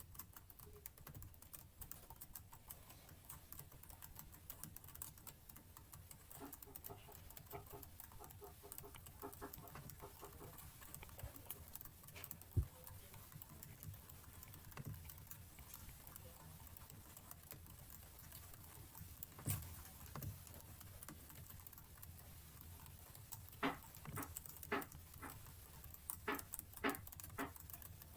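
Computer keyboard keys clicking quietly and irregularly, with a run of louder, separate key presses in the last few seconds.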